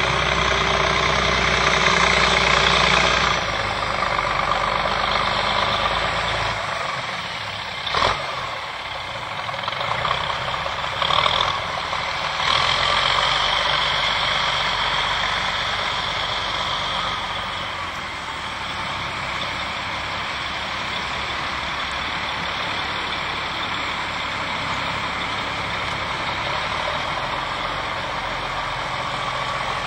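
A heavy vehicle's engine running steadily, its note and load changing a few seconds in and again around seven seconds, with a sharp click about eight seconds in.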